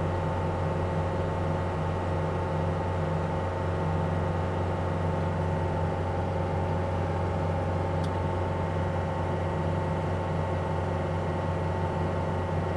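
Heavy machine's diesel engine running steadily at an even speed, with a steady whine over the low drone. A single sharp click about eight seconds in.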